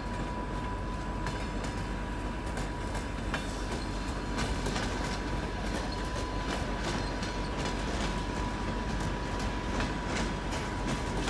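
Train running on the rails: a steady rumble with many quick wheel clicks and a thin steady whine.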